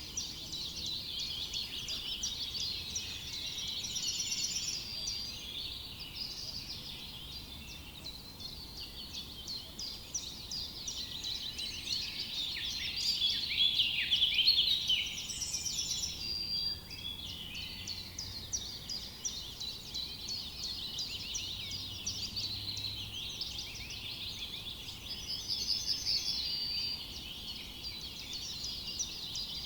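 Forest dawn-chorus style birdsong: many small songbirds chirping over one another in a dense, continuous chorus, with a few clearer trills standing out about four seconds in, midway and near the end.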